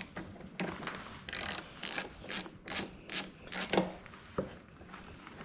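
Socket ratchet wrench clicking through about eight quick strokes, roughly two a second, loosening a lawn mower's spark plug.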